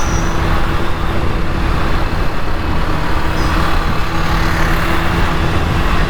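Honda Activa scooter's single-cylinder engine running at a steady hum while riding through city traffic, with wind rushing over the microphone.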